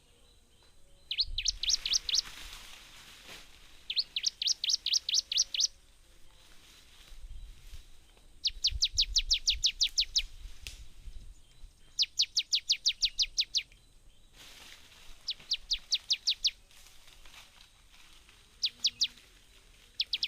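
A bird singing repeated phrases, each a quick run of about eight to ten short, rising, high-pitched notes lasting one to two seconds, with a pause of a couple of seconds between phrases.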